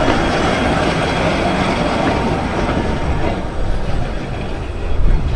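A 15-inch gauge miniature railway train running along the track with a steady rumble and rattle of wheels and carriages, which thins out about three and a half seconds in.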